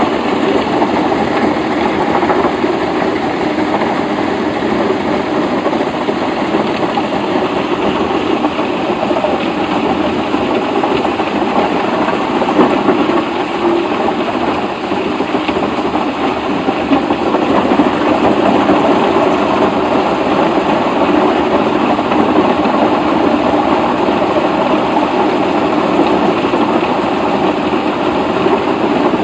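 A machine's engine running steadily with a dense mechanical clatter, without revving up or down.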